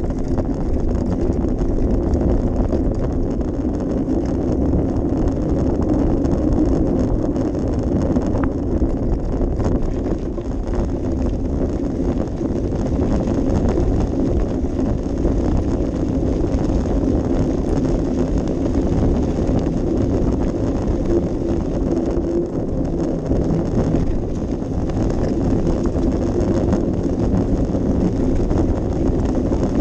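Steady wind rumble on a GoPro action camera's microphone, a continuous low rush with a faint hum.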